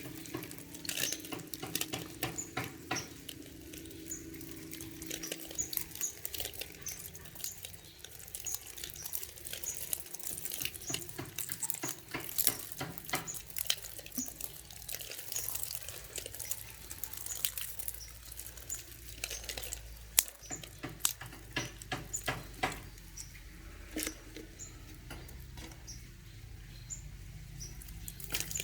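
Water poured from a bottle splashing and dripping over young green pigeons, a run of many irregular small patters and clicks.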